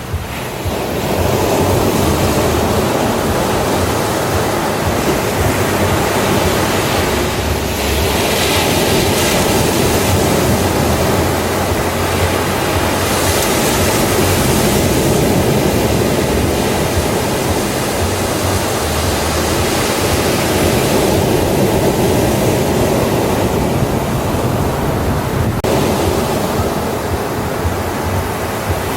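Ocean surf on a beach: a continuous wash of breaking waves, with the hiss surging a little louder about a third of the way in and again near the middle.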